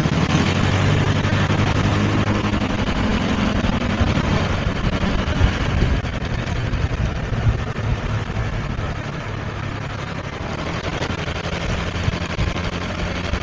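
Motorbike engine running while riding through traffic, with a steady rush of wind and road noise; the engine's low hum is strongest in the first few seconds and then fades under the road noise.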